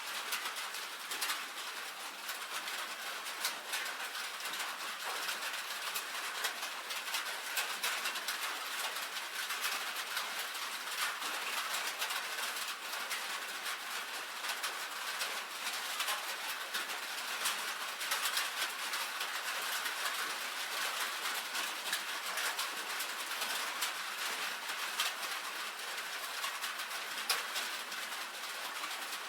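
Rain falling on a tin roof: a steady patter of many small drops ticking on the metal, even throughout.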